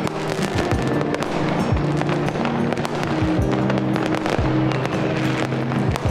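Background music with held tones, over fireworks cracking and popping, with deep booms about once a second.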